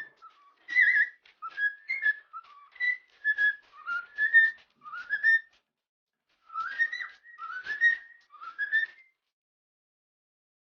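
Pet parrot whistling a string of short notes, many sliding upward, for about nine seconds before falling silent.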